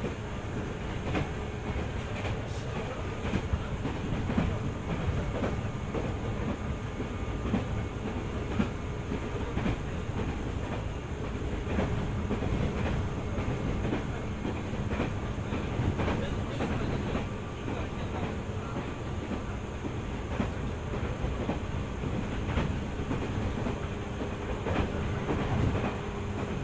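205 series electric train running along the track: a continuous rumble with a steady hum, and the clickety-clack of wheels over rail joints.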